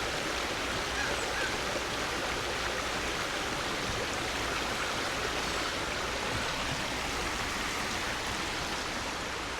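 Steady, even rushing noise that holds level and has no rhythm or pattern.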